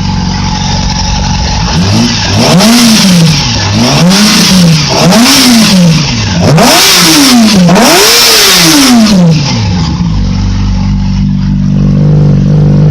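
2008 Yamaha R6 inline-four engine running in second gear: it idles, is revved five times in quick succession, each rev rising and falling in pitch, the last two highest, then settles back to a steady idle about ten seconds in.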